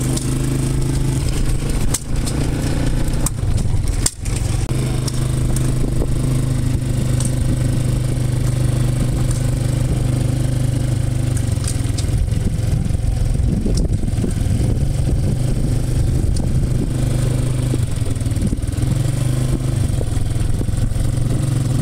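An engine running steadily at constant speed: a continuous low hum with no change in pitch.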